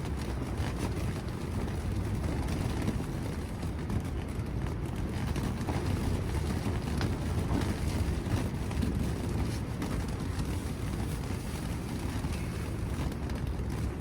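Strong wind blowing and buffeting the microphone: a steady, rumbling rush with no break.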